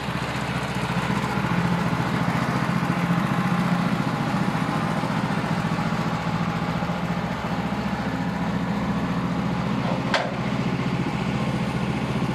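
Sawmill's engine running steadily, with one sharp click about ten seconds in.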